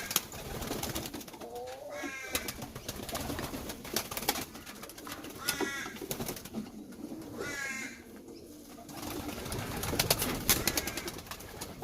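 Pigeons calling, three short rippling calls, with many sharp clicks and knocks throughout.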